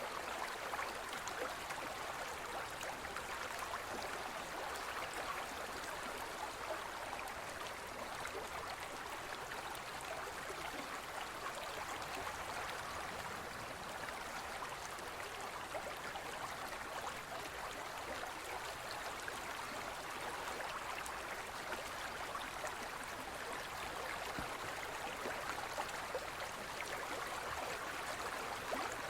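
Forest river flowing over rocks: a steady, even rush of water full of small splashes and gurgles.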